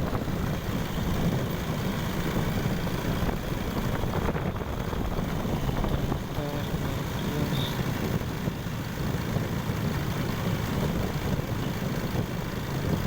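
Steady low rumble of a vehicle on the move, engine and road noise with wind on the microphone.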